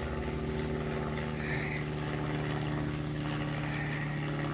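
Narrowboat engine running steadily, an even unchanging hum with a fine regular beat.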